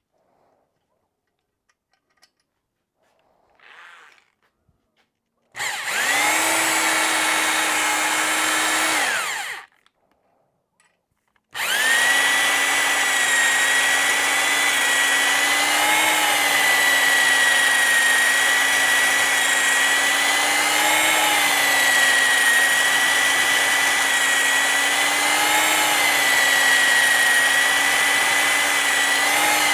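Electric drill spinning a cylinder hone in an outboard cylinder. It runs for about four seconds, stops, then starts again about two seconds later and runs steadily, its whine wavering slightly in pitch every few seconds as the load changes.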